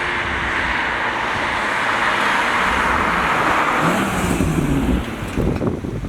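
Stock BMW M140i with its 3.0-litre straight-six passing on a soaked road. A steady hiss of tyres on wet tarmac covers a faint engine note that rises and falls near the end. The sound drops away about five seconds in.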